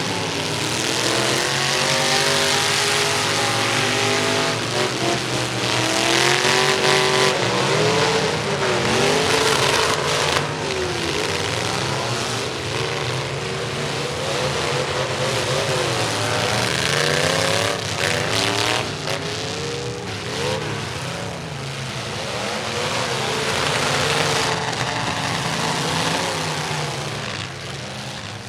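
Several demolition derby truck engines running hard at once, their pitches rising and falling against each other as they rev. A few sharp bangs stand out, about ten seconds in and again a little past halfway.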